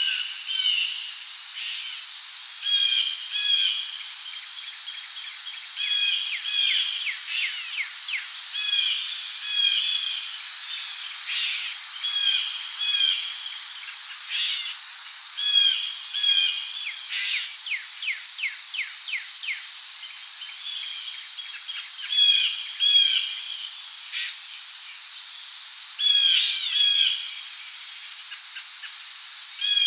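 Rainforest insects and birds: a steady, high insect drone, with birds repeating short chirping phrases every second or two.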